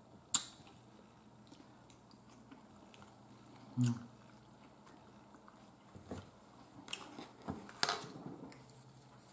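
A person eating pork steak: quiet chewing and mouth smacks, with a few sharp clicks, the loudest just after the start, and a short low hum about four seconds in.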